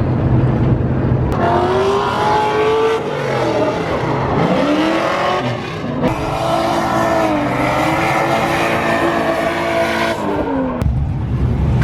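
Drift cars sliding: engines revving, their pitch rising and falling repeatedly, over the hiss of spinning, squealing tyres. A low steady rumble opens the sound, and the drifting starts and stops abruptly.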